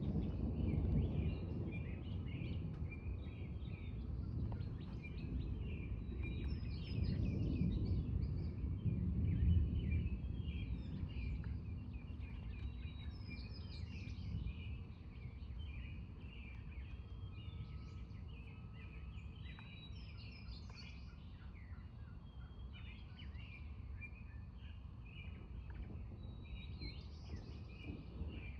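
Low, rolling thunder rumble that swells again partway through and then dies away, while songbirds chirp and sing throughout.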